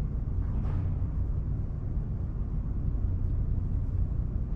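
Steady low rumble, with a faint brief rustle less than a second in.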